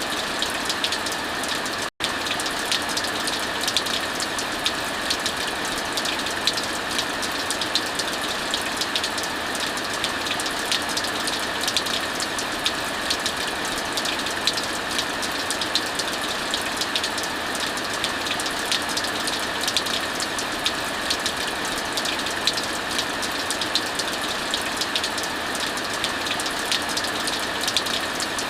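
Steady heavy rain with frequent sharp crackles and pops of a wood fire mixed in. The sound cuts out for an instant about two seconds in.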